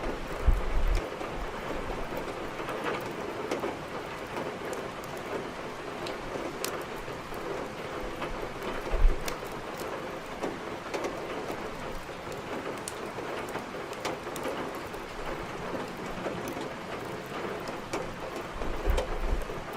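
Steady heavy rain falling, with scattered sharp crackles from a wood fire in a fireplace. Three brief low thumps stand out: about half a second in, about nine seconds in, and near the end.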